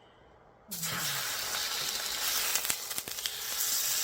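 Food sizzling in a hot frying pan, starting suddenly under a second in and running steadily, with a few small clicks and pops.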